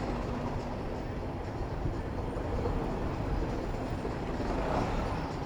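Steady city traffic noise with a low wind rumble on the microphone of a moving bicycle.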